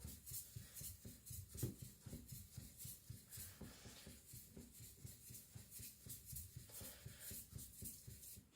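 Faint, rhythmic scrubbing of a Victorinox Chinese cleaver's blade face pushed back and forth under heavy pressure on a wet 2K Naniwa Aotoshi whetstone, about three strokes a second. The sides are being thinned and polished to remove coarse scratches.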